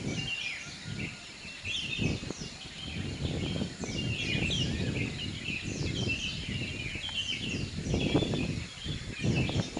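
Birds chirping, many short quick calls overlapping throughout, over an uneven low rumbling background noise.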